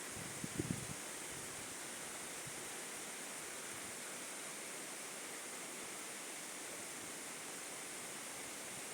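Waterfall's steady rushing noise, with a couple of brief low bumps just under a second in.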